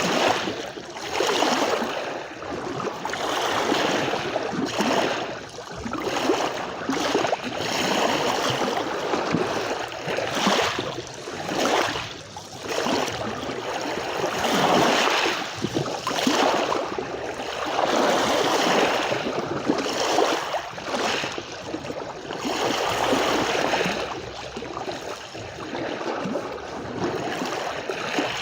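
Sea waves washing on a shore: a continuous rush of surf that swells and falls back every second or two.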